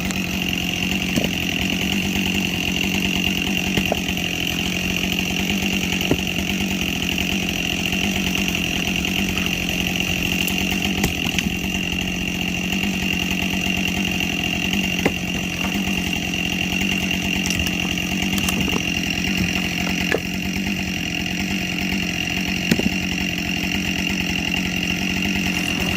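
Two-stroke chainsaw running steadily at high speed without a break, bucking logs from a pile into firewood lengths.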